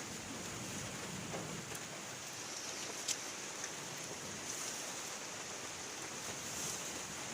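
Steady rain falling, an even hiss with a few sharp drop ticks, one standing out about three seconds in.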